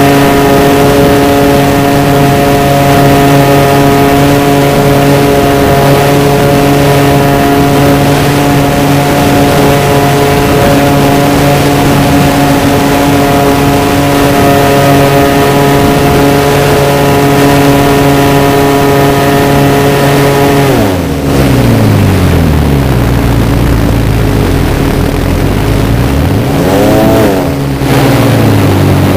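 Radio-controlled model Cessna's motor and propeller heard close up over rushing air, running at a steady high pitch, then throttled back about two-thirds of the way through so the pitch drops sharply and stays low, blipped briefly, and throttled up again near the end.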